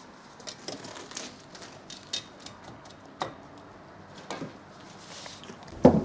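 Masonry work on brick: scattered light taps and scrapes, with a few sharper knocks and the loudest knock near the end.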